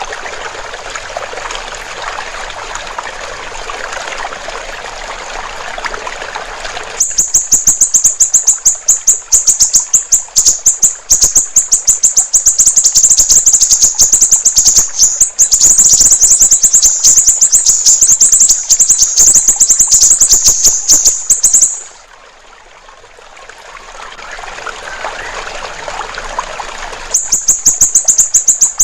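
Siri-siri bird singing a loud, very fast run of high, sharply repeated notes, over trickling water. The water is heard alone for the first several seconds and again in a pause, before the song starts up again near the end.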